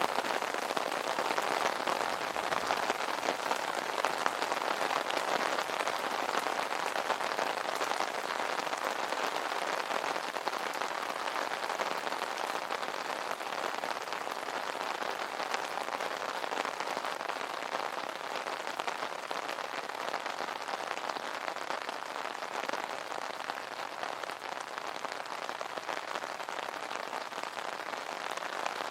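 Steady rain falling on an umbrella canopy: a dense, even patter of many small drop hits that eases slightly in the second half.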